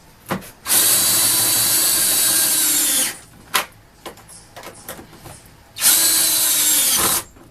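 DeWalt battery-powered driver on low speed spinning a deep well socket, running a nut down a carriage bolt. It runs twice, about two and a half seconds and then about one and a half seconds, and winds down each time the trigger is released. Small clicks and knocks come between the runs.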